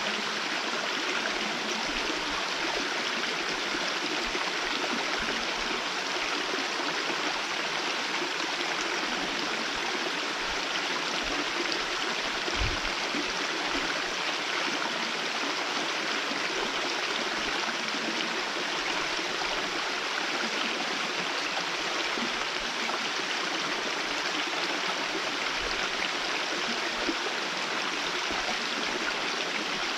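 Hōin Falls, a small waterfall running as only a thin line of water, splashing in a steady, even rush. A brief low thump comes about midway.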